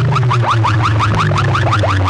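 Loud DJ competition music from a big speaker-box rig: a rapid train of rising electronic chirps, about six a second, over a deep droning bass.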